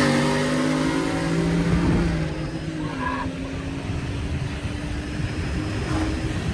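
Street-race vehicles accelerating hard away from a standing start. The engine pitch drops at a gear change right at the start, then the engine sound fades with distance over the first couple of seconds, leaving a fainter, steadier engine drone.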